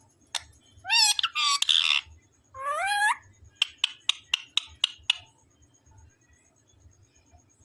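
Pet parrot calling: two rising squawks with a harsh burst between them, then a quick run of about seven short sharp calls, roughly four a second, that stops about five seconds in.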